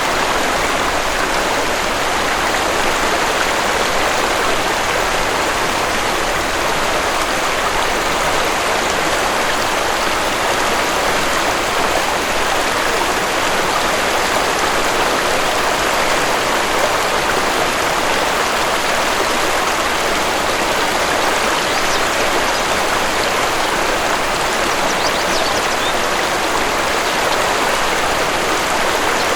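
Waterfall, water rushing steadily and evenly.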